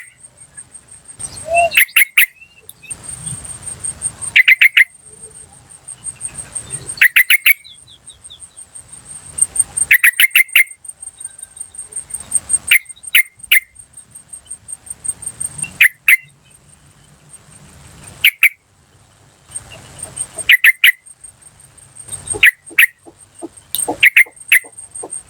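Yellow-vented bulbul (trucukan) calling: loud bursts of three to five quick chattering 'cuk cuk cuk' notes, repeated every two to three seconds.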